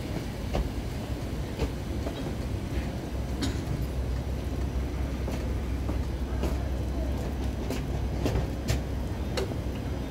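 Low, steady rumble of a diesel train, growing heavier about halfway through, with scattered sharp clicks over it.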